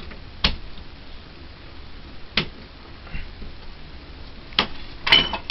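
Sharp knocks and clicks from things being handled: single knocks about two seconds apart, then a quick cluster near the end.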